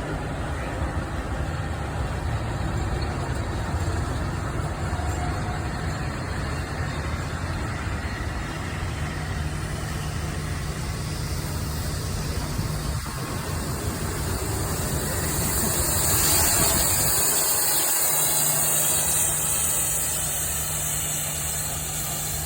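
Railway locomotives standing and idling with a steady low hum. About two-thirds of the way in, a loud hiss builds, holds for several seconds, then eases near the end.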